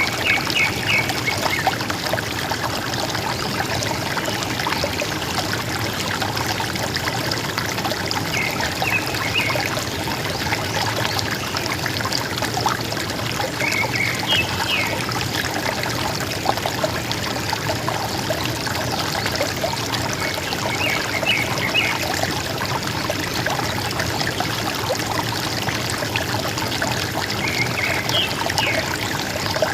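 River water running and gurgling steadily, with a bird repeating a short call of a few quick high notes about every six or seven seconds.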